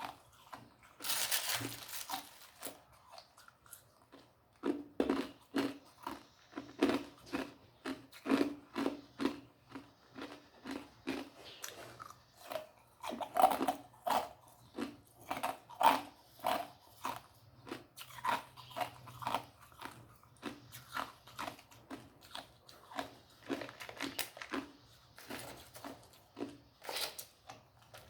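A person crunching and chewing ice: a run of sharp crunches, about two a second, with a louder, longer crunch about a second in.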